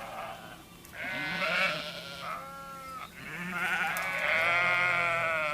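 Sheep bleating: a wavering call about a second in, then a longer, louder one that runs to the end.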